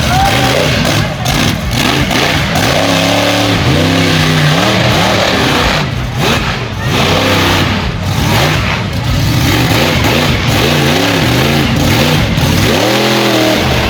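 Monster truck engine running loud, revving up and down again and again, with the pitch swinging high and low several times.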